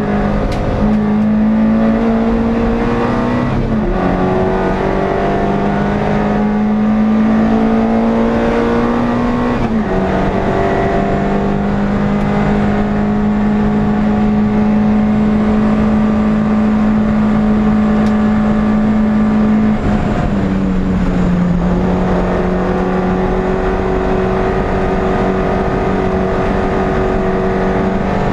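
NSU TT race car's air-cooled four-cylinder engine pulling hard, heard from inside the car. Its pitch climbs slowly or holds nearly steady, with a sharp drop at each upshift about 4, 10 and 20 seconds in.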